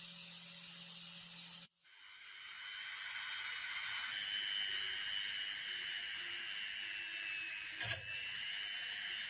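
Steady high-pitched hiss with a faint thin whine. It cuts out abruptly about two seconds in and fades back up, and a single short sharp click comes near the end.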